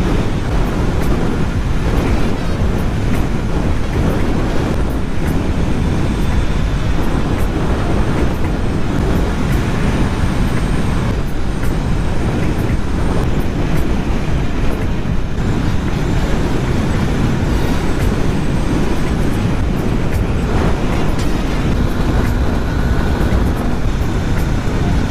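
Honda CB500F parallel-twin engine running while being ridden, under a steady rush of wind and road noise.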